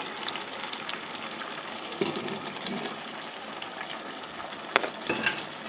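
Goat tripe (ojri) sizzling as it fries in a pot with yogurt just added, stirred with a spoon. There is a soft thump about two seconds in and a sharp clink of the spoon against the pot near the end.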